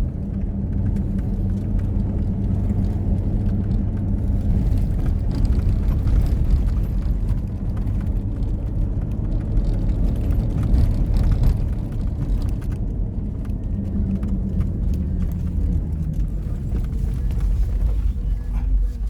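Motor vehicle running steadily: a continuous low engine and road rumble.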